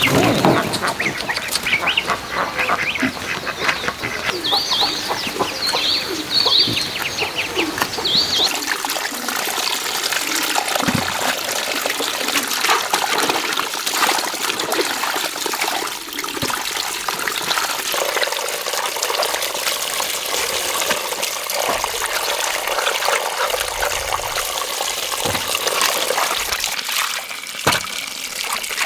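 Domestic fowl calling with short squawks for the first several seconds, over a steady rush like running water that carries on after the calls stop.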